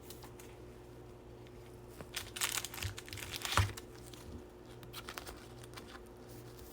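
Trading cards and their pack wrapper being handled, crinkling and rustling in a cluster of short bursts about two to four seconds in, with a few soft clicks after.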